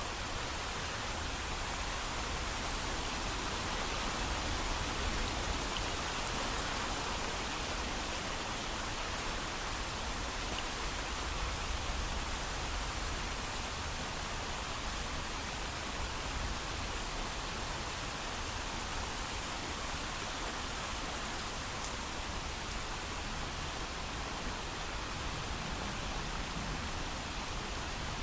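Heavy, steady rain, without thunder: an even hiss of rainfall with a low rumble under it, unchanging in level.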